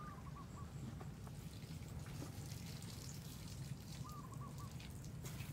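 A bird calls twice, each time a short run of three or four quick notes, once at the start and again about four seconds in. Under it is a faint low background hum, with light clicks and rustles of a nylon cast net being gathered and handled by hand.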